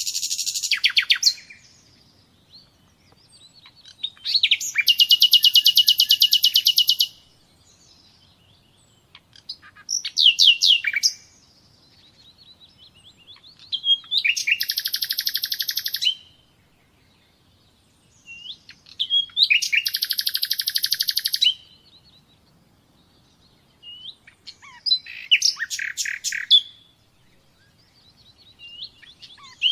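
A songbird singing in separate phrases of fast, high trills, each lasting one to three seconds, with a new phrase about every five seconds and short quiet gaps between.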